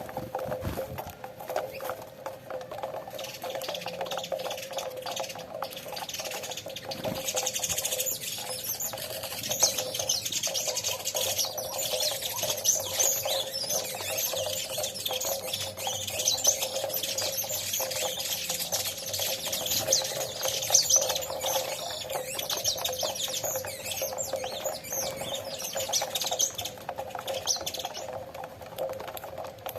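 A flock of saffron finches chirping busily, the calls starting about three seconds in and thinning out near the end, over many small clicks and taps from the birds feeding on cracked corn. A steady hum runs underneath.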